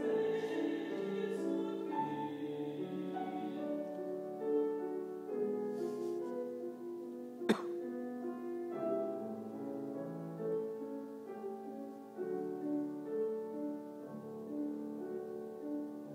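Piano playing a classical passage, with a singer's phrase dying away in the first few seconds. A single sharp click about halfway through.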